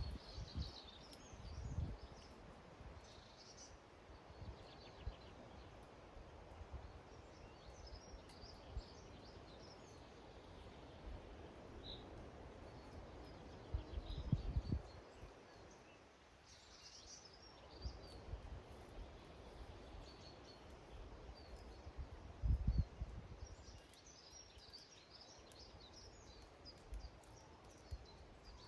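Small garden birds at a feeder giving short high chirps and twitters on and off, over a faint steady outdoor background. A few low thuds break in, the loudest about 14 and 22 seconds in.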